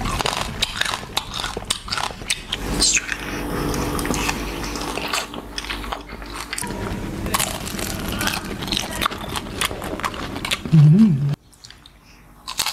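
People biting and chewing food close to the microphone, with many short crunching clicks. A brief loud hum comes near the end, and then the eating sounds stop abruptly.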